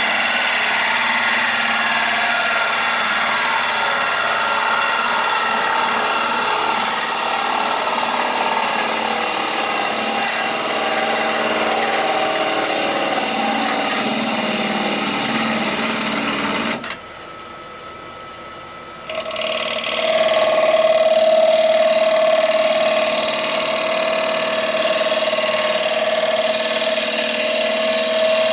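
Wood lathe running with the spinning rowan bowl being worked, a steady machine noise with wavering tones. About two-thirds of the way through it drops away sharply for two seconds, then returns as a louder steady hum with one strong tone.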